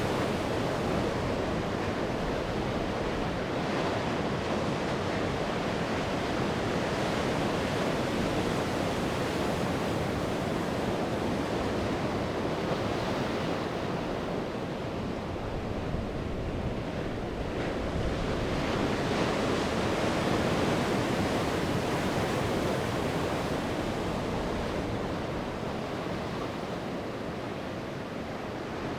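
Sea waves surging and washing onto the shore in a continuous surf, easing a little about halfway through and again near the end.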